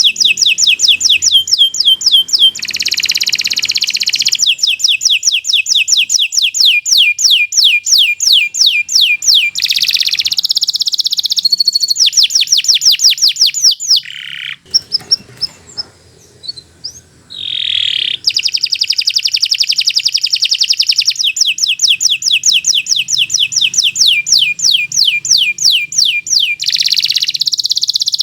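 Domestic canary singing long, continuous song phrases: fast trills of rapidly repeated falling whistled notes alternating with buzzy rolls. The song breaks off briefly about halfway through, then resumes.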